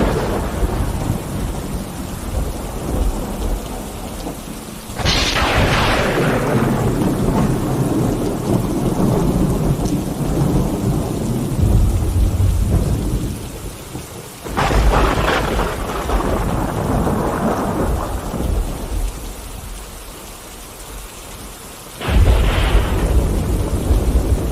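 Thunderstorm: steady rain with thunder. Three sharp thunderclaps break in, about five, fourteen and twenty-two seconds in, each rolling into a long low rumble. A rumble from an earlier clap fades over the first few seconds.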